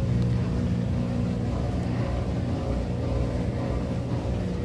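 Maytag Bravo washer's drain pump running with a steady, low hum.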